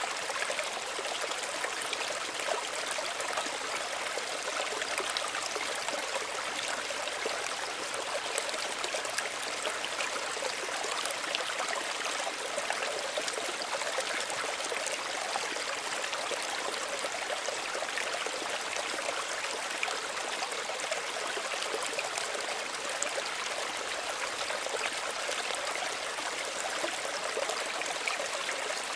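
Small stream running steadily over stones, an even babble and trickle of water with no pauses.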